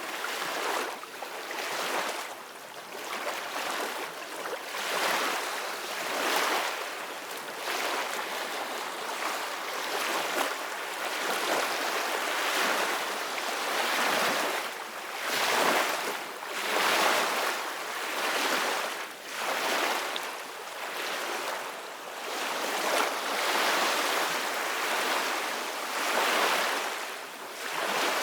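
Ocean waves breaking and washing on the shore, a steady surf hiss that swells and falls every second or two.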